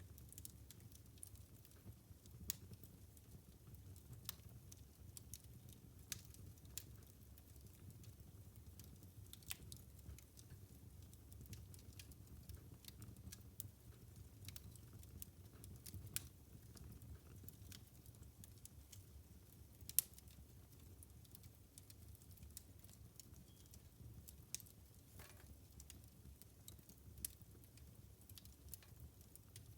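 Wood fire crackling in a fireplace: irregular sharp pops and snaps over a low, steady rumble of the flames, with one louder pop about twenty seconds in.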